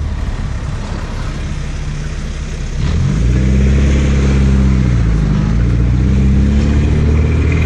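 Car engine heard from inside the cabin while driving slowly in traffic. About three seconds in it gets louder as it pulls forward, a low steady hum whose pitch dips briefly and then rises again.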